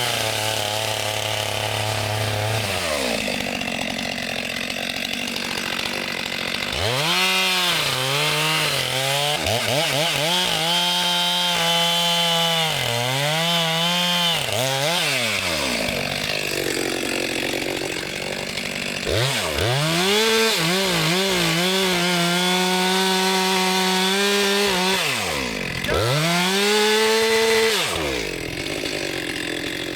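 Two-stroke chainsaw idling, then revved up again and again and held at full throttle, its pitch sagging and climbing as it cuts through wood, with two long sustained runs.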